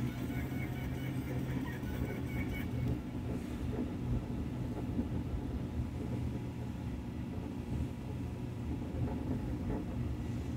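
A moving car's steady engine and road rumble, a low even drone without revving; a Renault Sandero 1.6 under way.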